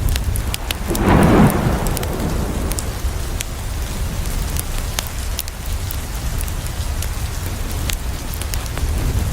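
Steady rain against a window, with sharp crackles from a wood fire scattered throughout. A brief, louder rumble comes about a second in.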